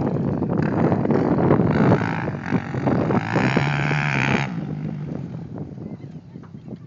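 Motocross bike engines revving hard on the track; the loud engine sound cuts off about four and a half seconds in and fades away.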